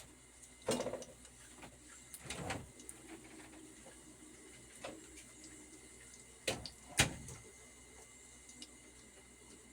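Scattered knocks and clatters of cooking utensils against a pot, the loudest two close together about two-thirds of the way in, over a faint steady hiss.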